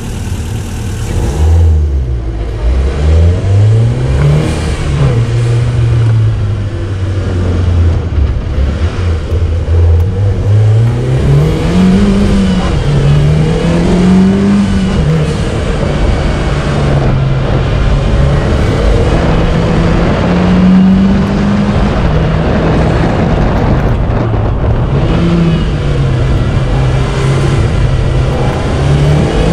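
Mitsubishi Lancer Evolution X's turbocharged 2.0-litre four-cylinder engine launching hard about two seconds in, then running at high revs, its pitch climbing and dropping over and over as it accelerates, changes gear and slows between cones.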